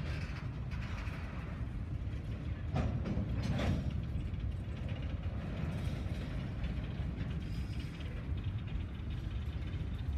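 Empty coal hopper and gondola cars of a freight train rolling past: a steady rumble of steel wheels on rail, with two brief sharper noises about three and three and a half seconds in.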